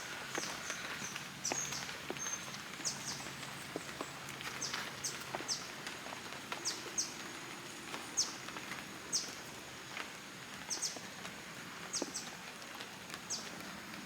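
Wild birds chirping: short, high chirps falling in pitch, repeated irregularly, over a faint steady high tone.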